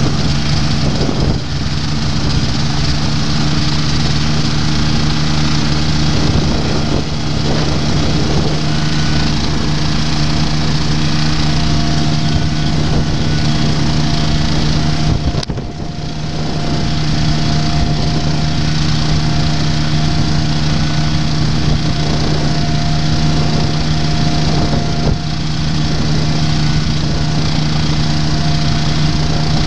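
Rotax engine of a Quad City Challenger ultralight running steadily at a constant pitch, with a brief dip in level about halfway through.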